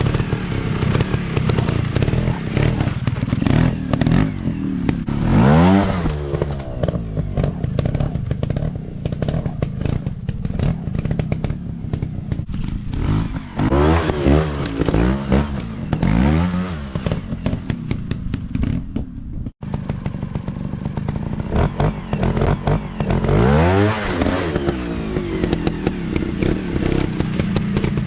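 Small single-cylinder dirt-bike engines running and revving, the pitch rising in repeated short throttle bursts, with a brief break about two-thirds of the way through.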